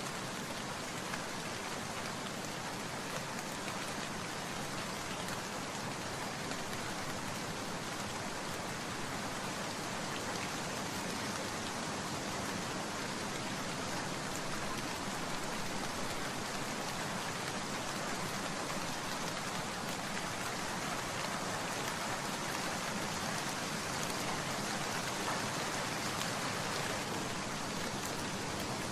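Steady rain falling on a surface: an even, continuous hiss of many drops.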